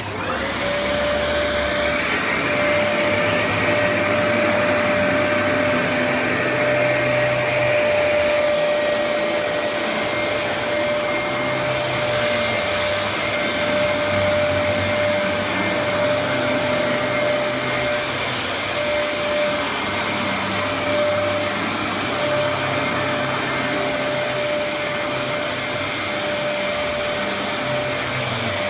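Dyson DC07 upright vacuum cleaner switched on, its motor spinning up within a moment and then running with a steady whine, the low end swelling and easing as it is worked over the floor.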